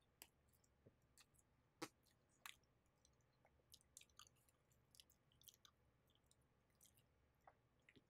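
Faint, close-up mouth sounds of someone biting and chewing soft naan: scattered small clicks and wet smacks, the loudest about two seconds in.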